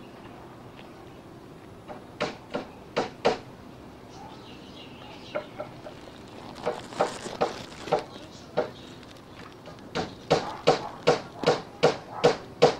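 A bird's short, repeated calls. They come in a few scattered groups at first, then settle into a steady run of about three a second near the end.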